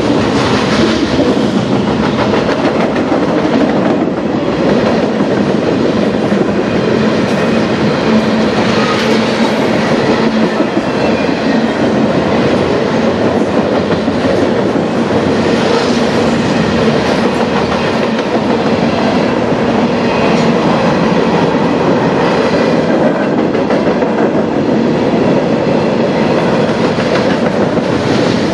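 Cars of a loaded freight train rolling past: a loud, steady rumble and rattle of steel wheels on the rails.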